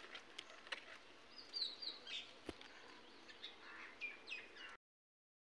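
Faint bird chirps: short, high, falling calls repeated in small groups over a quiet outdoor background. The sound drops to dead silence near the end.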